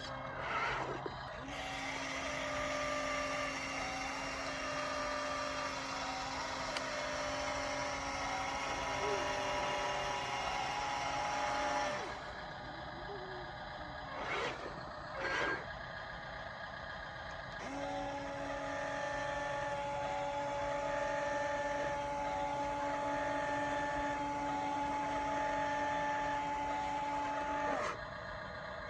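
Electric motors of a radio-controlled construction vehicle whining at a steady pitch in two long runs, about ten seconds each, with a quieter gap between them broken by two short noises.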